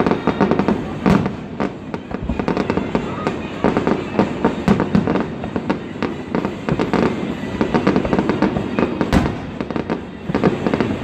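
Fireworks exploding in a dense, continuous barrage of overlapping bangs and crackles, with a sharper, louder report about a second in and another toward the end.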